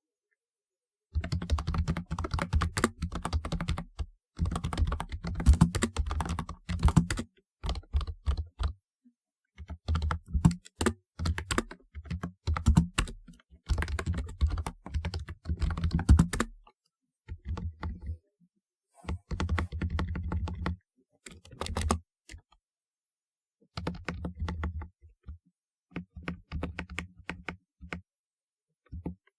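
Typing on a typewriter-style mechanical keyboard with round keycaps: rapid runs of clacking keystrokes in bursts of one to three seconds, separated by short pauses.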